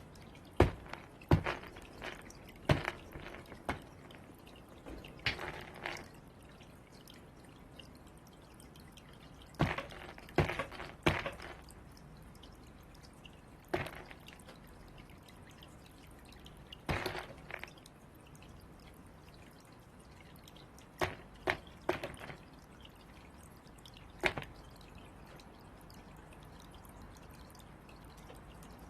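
Irregular sharp taps and knocks, singly and in quick clusters of two or three, with quiet gaps between: crows pecking at and knocking about balls.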